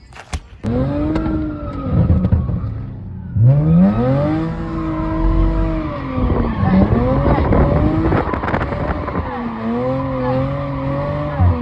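Car engine revving hard, its pitch climbing and falling again and again, with tyres skidding over it as the car is spun in donuts.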